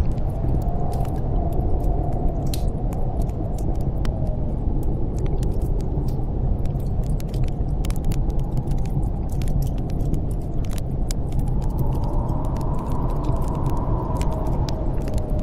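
Snowstorm wind blowing steadily over a deep low rumble, with faint whistling gusts that rise and fall, the strongest near the end. A wood fire crackles throughout with scattered sharp pops.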